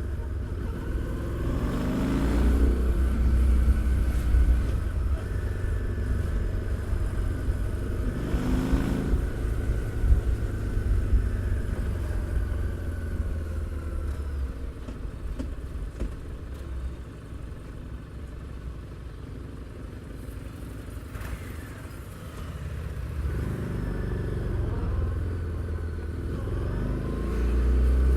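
Harley-Davidson Street 750's V-twin engine and exhaust under way. It speeds up through the gears with a rising engine note twice in the first ten seconds, quietens to a lower, steady run in the middle, then picks up and revs again near the end.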